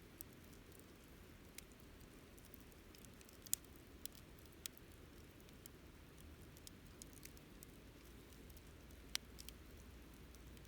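Wood fire crackling quietly, with sparse sharp pops and snaps over a low steady rumble; the loudest pops come about three and a half seconds in and again near nine seconds.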